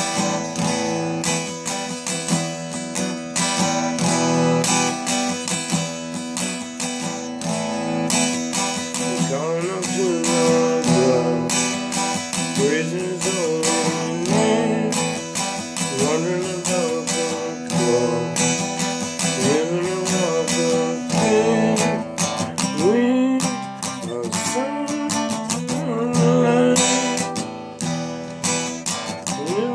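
Instrumental break of a gospel song: acoustic guitar strumming a steady rhythm of chords. About nine seconds in, a lead melody joins with notes that slide and bend in pitch.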